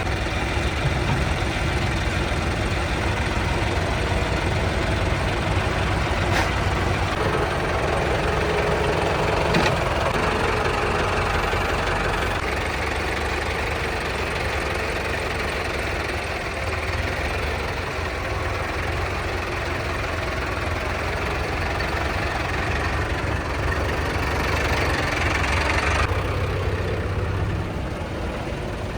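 Diesel tractor engines running steadily at low revs, with a couple of brief knocks about six and nine and a half seconds in.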